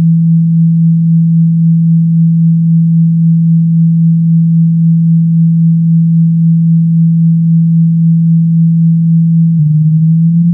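A loud, steady electronic low tone of about 165 Hz, played to shake water and dust out of a phone speaker. About nine and a half seconds in, a click is heard and the tone begins a slow upward sweep.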